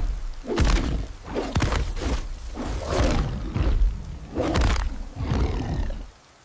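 Monster roaring sound effect, heavy and rough with deep rumble, coming in about six bursts roughly a second apart, then dropping away near the end.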